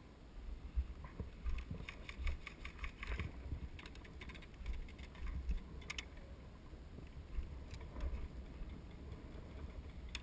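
Scattered sharp clicks, a cluster of them about two to three seconds in and one more around six seconds, over a constant low rumble like wind on the microphone.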